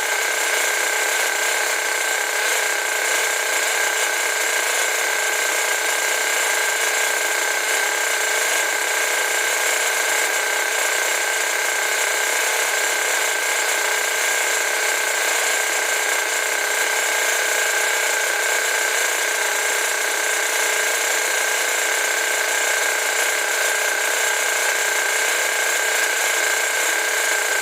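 A small motor running with a steady, unchanging whir and a constant high whine throughout.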